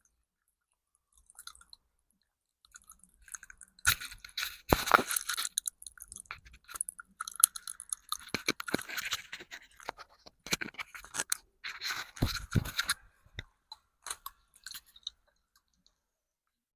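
Popping candy (Pop Rocks type) crackling and popping in the mouth, mixed with chewing. A dense run of sharp crackles and clicks starts about four seconds in and thins to scattered ticks near the end.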